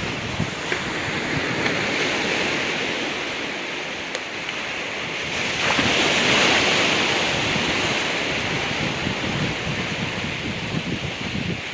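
Ocean waves washing in on the shore, one wave swelling louder about six seconds in, with wind buffeting the microphone.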